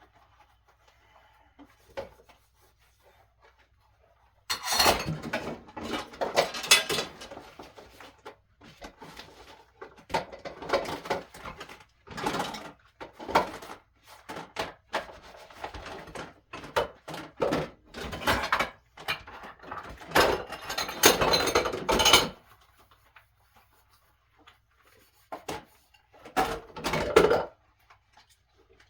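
Dishes, pots and utensils being handled and set down, irregular knocks and clatter in several spells with quiet gaps between.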